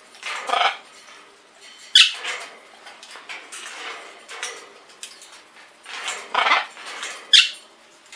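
Pet birds calling: a string of short, harsh squawks and sharp calls at irregular intervals, the two loudest about two seconds in and near the end.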